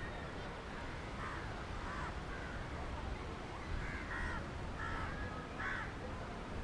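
Crows cawing, a string of short calls in quick succession, over a steady low background noise.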